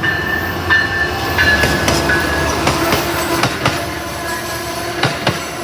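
Amtrak passenger train led by a Siemens Charger ALC-42 locomotive rolling past close by, its wheels clicking over rail joints and squealing with steady high tones.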